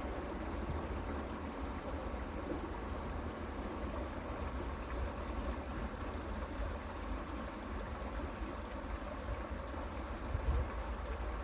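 Creek water running steadily, with a low rumble underneath and a brief low thump near the end.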